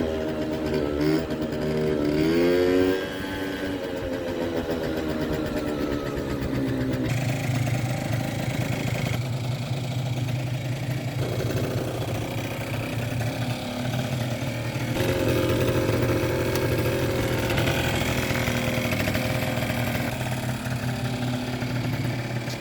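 Kymco Super Fever ZX 50cc two-stroke scooter engine revving, rising in pitch a couple of times in the first few seconds, then running at a steadier speed. It runs unevenly with a dead mid-range, a sign of a fuel or carburettor fault.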